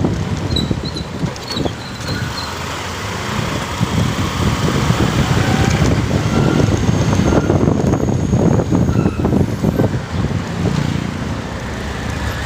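Motorcycle riding: steady engine and road noise mixed with wind buffeting the microphone.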